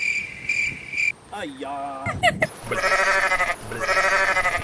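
Two long, wavering goat bleats in the second half, each about a second long. Before them come a steady high tone for about the first second and a short gliding squeal.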